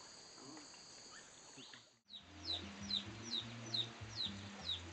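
Bird chirping a quick, regular series of short notes that fall in pitch, about two a second. Low steady tones run beneath. This starts after a sudden dropout about two seconds in, which follows a faint background hiss.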